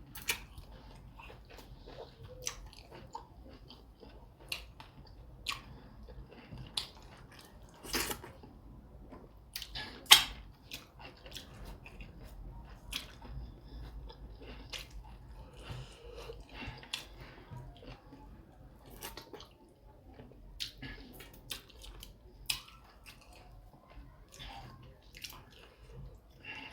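Close-up sounds of a person eating fufu: chewing with irregular short mouth clicks, the loudest about ten seconds in.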